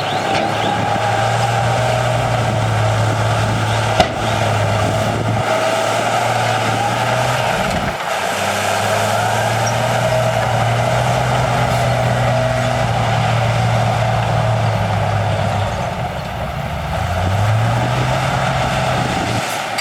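Heavy diesel earthmoving machinery running steadily, its engine speed dipping and picking back up a few times as it works. A single sharp click about four seconds in.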